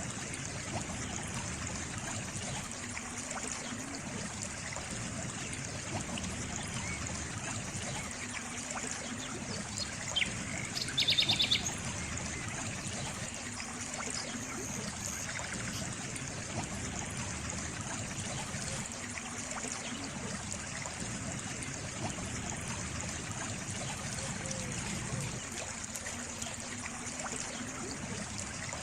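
Water trickling and flowing steadily in a stream. About ten seconds in, a short, rapid high-pitched trill stands out briefly over the water.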